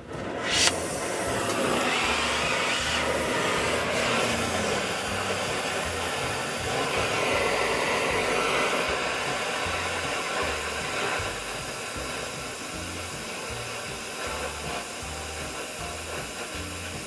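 Gas torch flame hissing steadily as it heats a steel bar held in a vise for bending. The hiss starts sharply about half a second in.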